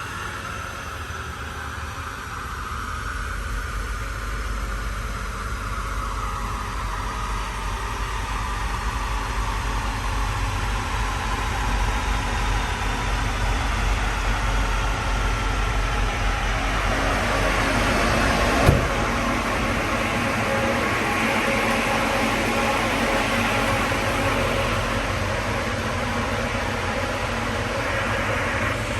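GM L92 6.2-litre V8 in a Toyota Land Cruiser 100 running steadily, its note slowly falling in pitch at first, then growing louder and noisier. A single sharp click comes about two-thirds of the way through.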